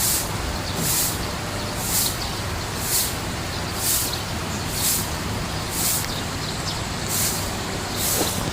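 Steady rushing of a koi pond's running water, with a sharp hiss that repeats about once a second.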